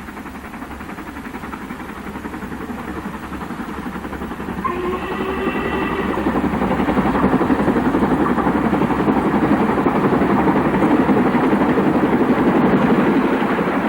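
LMS Princess Coronation Pacific steam locomotive Duchess of Hamilton hauling an express, its rapid exhaust beats growing steadily louder as it approaches. A brief higher-pitched tone sounds about five seconds in.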